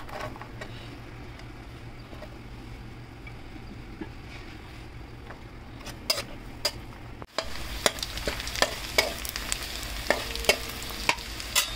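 Sliced garlic frying in melted butter in a metal pan, with a steady soft sizzle. A metal spatula scrapes and clicks against the pan as the garlic is stirred, the clicks coming thick and fast in the second half.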